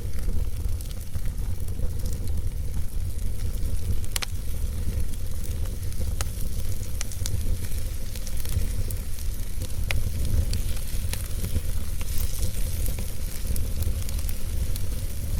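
Wood fire burning in a fireplace: a steady low rumble with scattered sharp crackles and pops from the burning logs, one of the louder pops about four seconds in.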